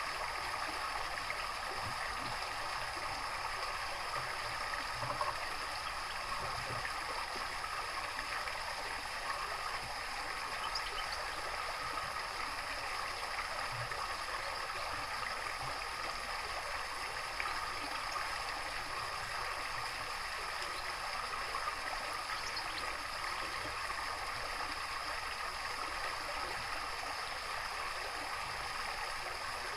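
Running water trickling and gurgling steadily, like a small stream or garden water feature.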